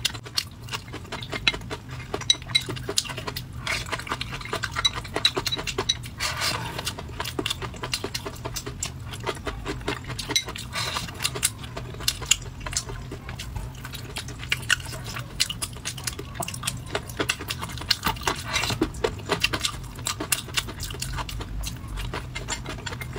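Close-up eating sounds: wet chewing and lip smacking, with wooden chopsticks clicking against a ceramic bowl. Many quick, irregular clicks and smacks throughout.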